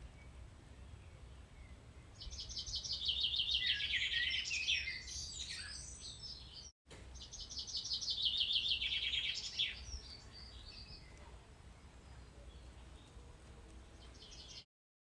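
A songbird singing two phrases of rapid, repeated high notes, one about two seconds in and another about seven seconds in, over a low steady background hum.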